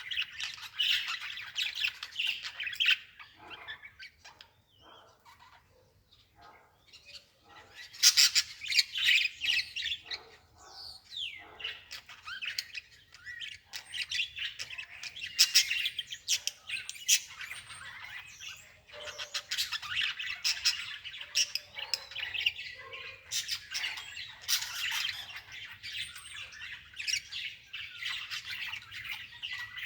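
Birds chirping and squawking in a dense run of short, rapid calls, thinning out briefly a few seconds in.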